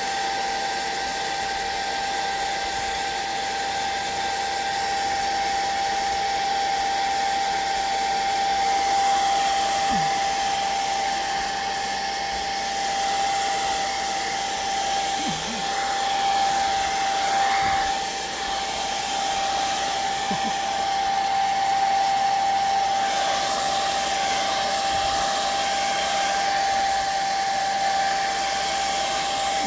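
Handheld electric hot-air dryer running continuously, a steady whine over the rush of blown air, used to dry wet watercolor and ink on the paper.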